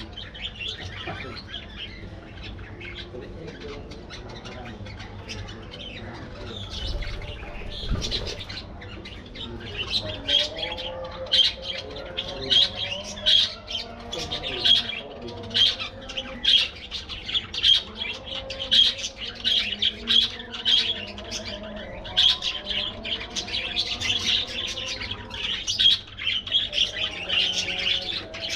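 A flock of budgerigars chattering, with rapid high chirps and squawks over a lower, wavering warble. The chatter grows louder and busier about ten seconds in.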